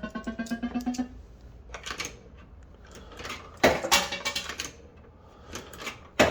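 Bell-Fruit Wild Cats fruit machine playing a pulsed, rising electronic tone that stops about a second in. It is followed by short bursts of mechanical clicking and clunking from the machine, twice, the second bunch the loudest.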